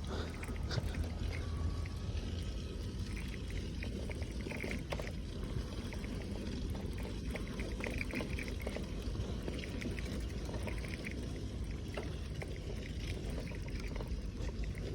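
Steady low rumble of a bicycle rolling along a rough jungle track, with scattered light clicks and rattles.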